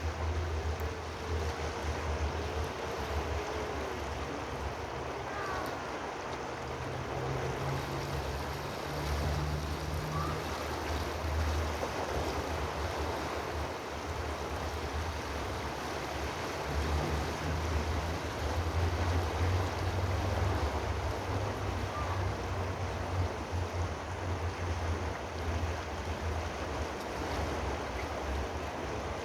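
Steady rushing of water with a low rumble underneath that swells and fades, and a few faint short whistles.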